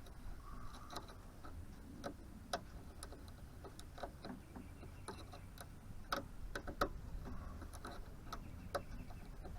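Faint, irregular small clicks and snips of a hand tool working at a door-latch cable, stripping its covering.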